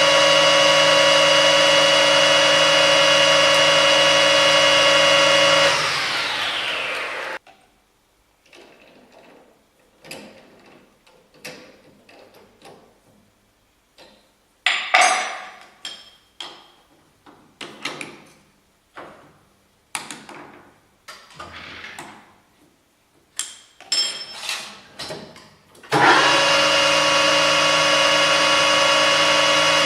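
Metalworking lathe running steadily with a pitched motor whine, then switched off about six seconds in and spinning down over a second or so. Then comes a scattered series of sharp clicks and knocks of metal parts being handled, one ringing about fifteen seconds in, before the lathe starts up again a few seconds before the end.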